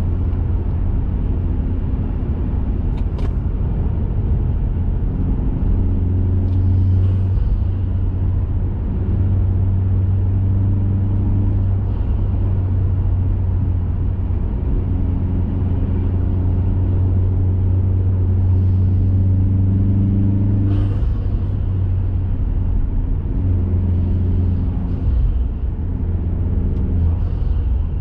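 2021 Mazda 3 Turbo's turbocharged 2.5-litre four-cylinder, breathing through a CorkSport cat-back exhaust and BMS high-flow intake, driving along with a steady low drone that swells and eases several times as the throttle changes. A couple of short clicks can be heard along the way.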